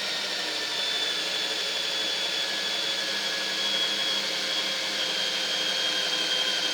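Electric drill running steadily with a high motor whine, drilling a 4 mm hole through 1 mm aluminium sheet.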